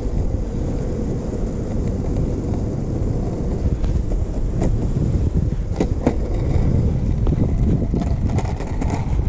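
Flexdex Pro 40V board's wheels rolling over pavement with a steady low rumble, wind buffeting the microphone, and a few sharp clicks from bumps about halfway through.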